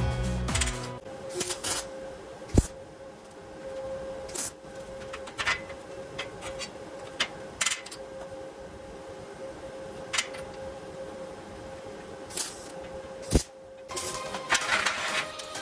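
Scattered sharp knocks and clicks of metal frame parts being handled and fitted into place, with two louder knocks, over a steady faint hum.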